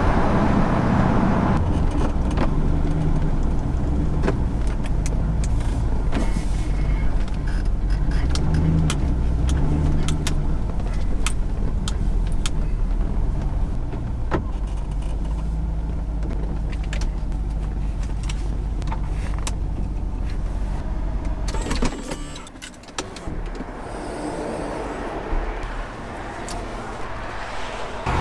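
Lamborghini Countach replica on the move: engine running with its pitch shifting as the speed changes, over steady road noise and scattered sharp ticks. About 22 seconds in the engine and road rumble drops away sharply and the sound turns much quieter.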